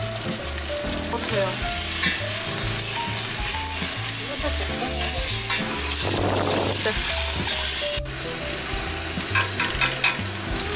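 Thin-sliced beef sizzling as it stir-fries in sesame oil and cooking oil in a stainless steel pot. About six seconds in, water is poured into the pot in a rushing splash. Near the end, a wooden spoon stirs the broth with a few light knocks against the pot.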